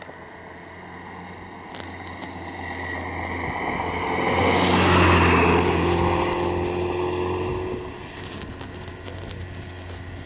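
Rally car passing by at a steady engine speed, growing louder to a peak about halfway through and then fading away, its note dropping slightly as it goes past.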